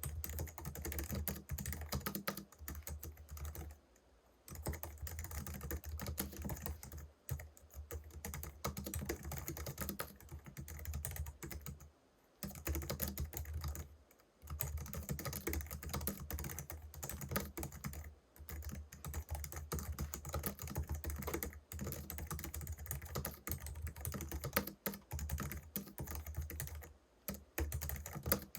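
Typing on a Logitech MX Keys Mini keyboard, its low-profile scissor-switch keys clicking in quick, continuous runs, with brief pauses about 4, 7, 12 and 14 seconds in.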